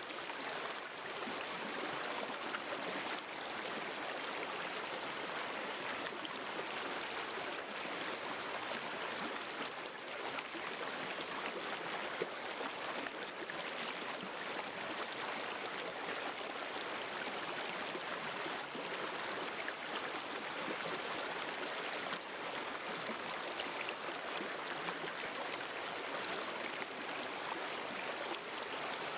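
River or stream water flowing over rocks: a steady rushing babble with small splashes and gurgles throughout.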